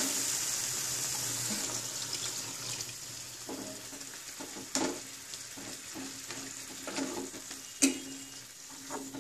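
Tomato-onion masala sizzling in a kadai as ground chilli, coriander and cumin paste is stirred in with a steel ladle, the hiss fading gradually. A few short taps of the ladle against the pan come in the second half.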